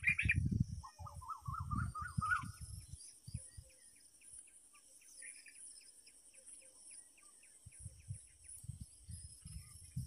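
A bird calls with a short run of chirps rising in pitch about a second in, then a quick, regular ticking of chirps for a few seconds, over a steady high insect drone. Low rumbling bumps come at the start, around two seconds in, and again near the end.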